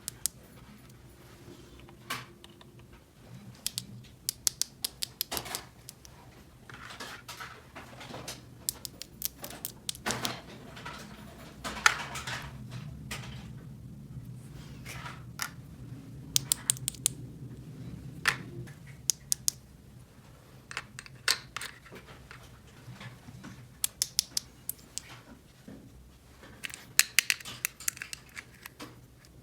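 Small plastic toy pieces clicking and tapping as they are handled and set in place, in irregular runs of sharp clicks.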